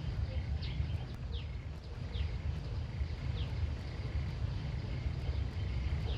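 Outdoor rural ambience: a steady low rumble with short, high chirps that fall in pitch, repeated about once a second, from a small animal such as a bird.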